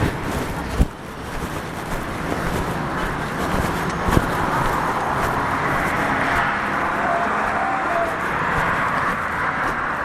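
City street traffic noise, with vehicles passing. There is a sharp knock just under a second in and another about four seconds in, and a broad swell of vehicle noise builds through the second half.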